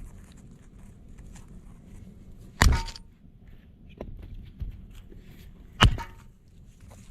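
Two heavy strikes about three seconds apart, the first followed by a brief ring, with faint rustling and handling noise between.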